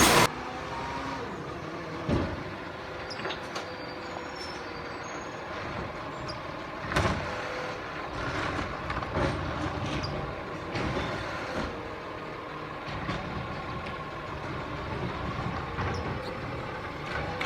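Diesel McNeilus Zero Radius side-loading garbage truck running steadily, with several short knocks and clanks, the clearest about two, seven, nine and eleven seconds in.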